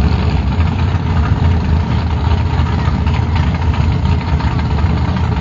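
Drag racing car engines idling at the start line, a steady low rumble.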